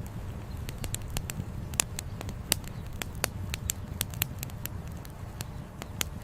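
Wood campfire crackling, with irregular sharp pops and snaps several times a second, over a steady low rush of flowing river water.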